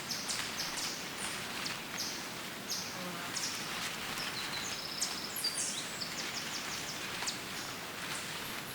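Woodland birdsong: several small birds chirping in short, high notes, with a fast trill about five seconds in, over a steady hiss of forest ambience.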